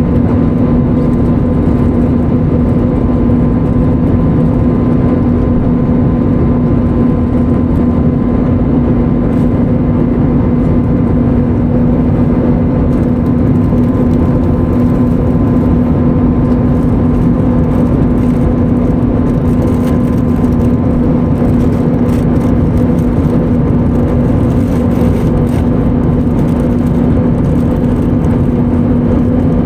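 Airliner cabin noise aboard an Airbus A320neo in flight: a steady, even rush of engine and airflow noise with a constant low hum, unchanging throughout.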